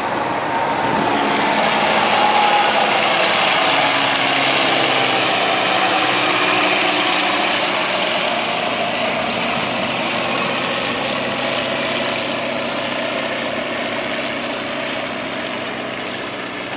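Piston engine of a vintage First World War-type fighter plane flying past. It swells to its loudest about two seconds in and then slowly fades, its pitch sinking as it goes.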